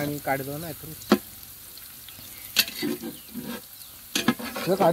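Sliced onions frying in oil in a large aluminium pot over a wood fire, a steady sizzle, browning for the biryani. A metal spatula stirring in the pot clicks against it sharply a couple of times.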